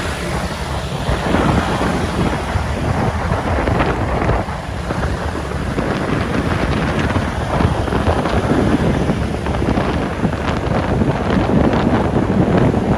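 Wind buffeting the microphone of a rider on a moving motorbike, a loud steady rumble with the bike and traffic underneath.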